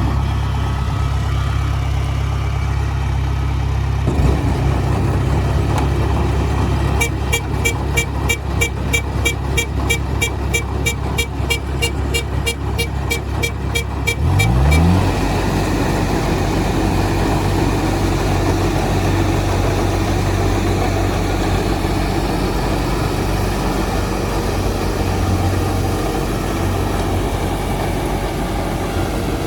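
Tractor diesel engine running steadily, revving up about halfway through. For several seconds before the rev a rapid high beeping sounds over it, about five beeps a second.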